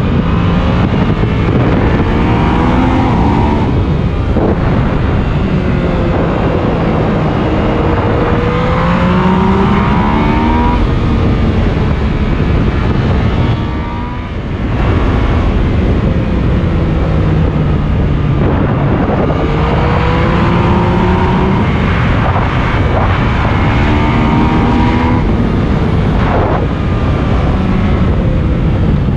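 Yamaha MT-09's three-cylinder engine accelerating hard on the road. Its pitch climbs and drops back again and again as it shifts up through the gears, over steady wind rush on the microphone. The throttle eases off briefly about halfway through.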